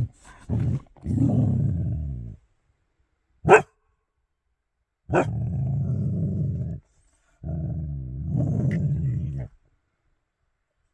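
Dog growling low in three long, steady stretches, a warning growl at what is taken for a bear outside. A single sharp, short crack about three and a half seconds in is the loudest sound.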